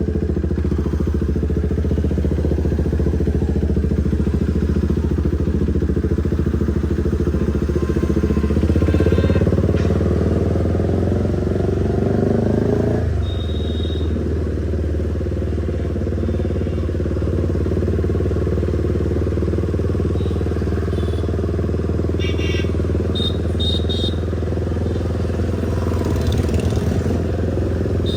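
KTM motorcycle running on the move with an aftermarket exhaust. Its note rises from about eight seconds in, then drops suddenly and settles back to a steady run.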